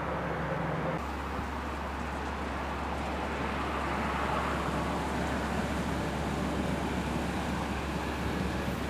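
Distant electric passenger train, an SBB Re 460 locomotive hauling coaches, rolling past: a steady rumbling, rushing noise that swells a little around the middle, over a steady low hum.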